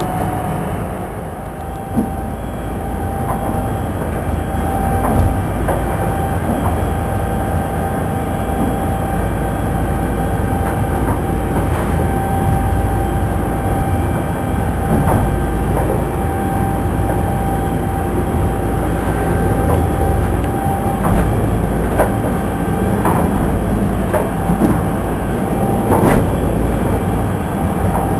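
A small boat's engine running steadily under way, with the hull knocking and slapping on rough seas every few seconds and heavy rumbling noise underneath.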